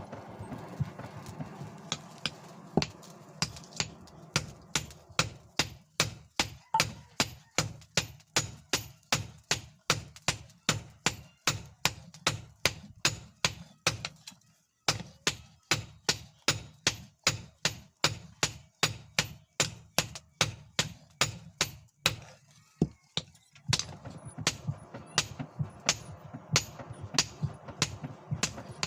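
Hand hammer blows on leaf-spring steel over an anvil, about two strikes a second, with two short pauses: forging the knife blade. A steady low hum runs underneath.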